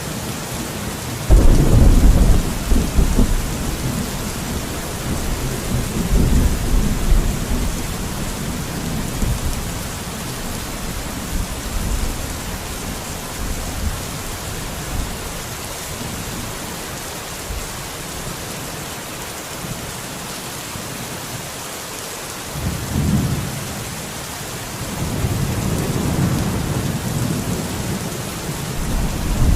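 Steady rain hiss with several deep low rumbles rolling over it. The first rumble comes in suddenly about a second in, and others come around six seconds in and again near the end.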